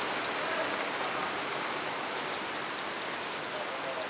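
Small waterfall with steady rushing water falling into its pool.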